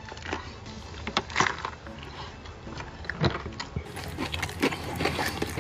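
A person biting into and chewing spicy chicken close to the microphone: irregular crunches and wet mouth clicks.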